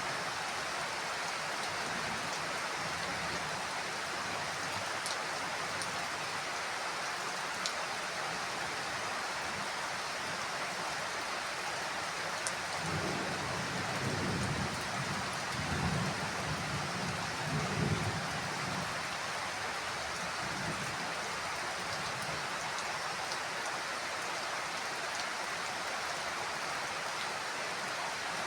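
Heavy rain falling steadily, with scattered drop ticks. A low rumble of thunder swells and rolls from about twelve to nineteen seconds in.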